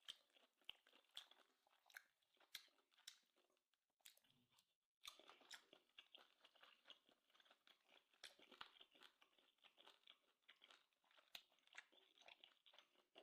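Faint close-up chewing of grilled steak: soft, scattered wet clicks and crackles of the mouth working, with a brief lull partway through.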